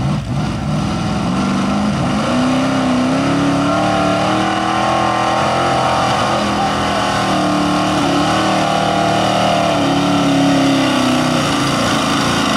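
A 4x4 pulling truck's engine at high revs under load on the sled. It climbs in pitch about two seconds in, holds high, eases briefly midway, climbs again and drops near the end.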